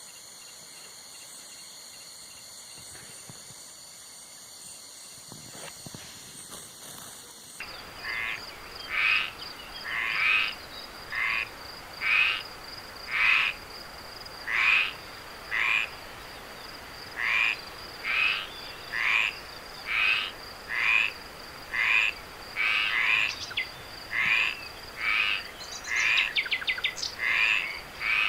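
A steady, high-pitched night insect chorus that changes abruptly about seven or eight seconds in to a frog calling over and over, about once a second, over a steady high insect trill. A brief rapid clicking series comes near the end.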